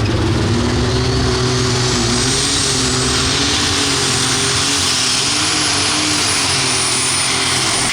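Engine of a competition pulling tractor or truck running hard at full throttle, loud and steady, with a high whine that climbs in pitch over the first few seconds and then holds.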